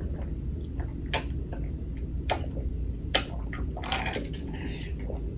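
A fork clicking and scraping against a food container a handful of times while food is scooped, over a low steady hum.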